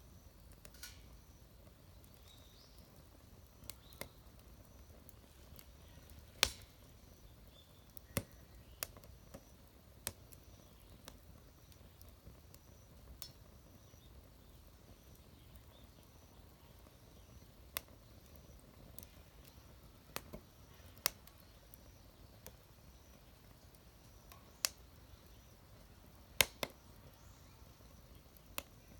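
Wood fire crackling in a homemade fire pit: sparse, irregular sharp pops, about a dozen, over a faint steady background.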